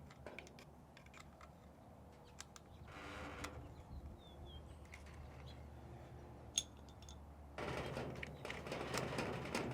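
FN SCAR rifle parts handled during reassembly: light scattered metallic clicks, one sharp click about two-thirds of the way through, then a longer stretch of metal parts sliding and rubbing together near the end.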